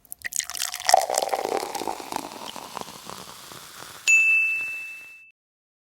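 Crackling with many small clicks for about four seconds, then a single bright ding that rings and fades away over about a second.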